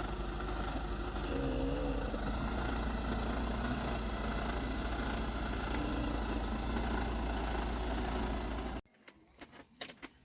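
Lorry's diesel engine idling steadily, then cutting off abruptly about nine seconds in.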